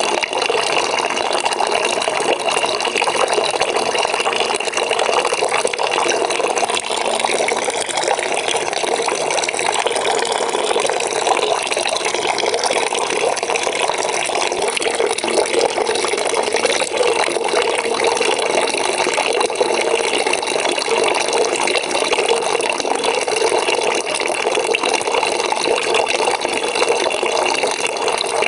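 Water pouring steadily into a bucket as it fills, a continuous even rushing splash.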